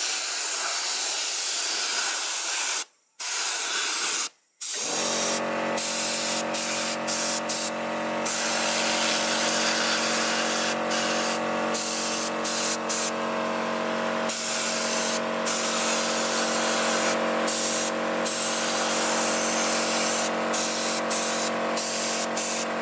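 Paint spray gun hissing as it sprays, cutting out twice briefly about three and four and a half seconds in as the trigger is let go. From about five seconds in, a steady motor hum runs under the hiss.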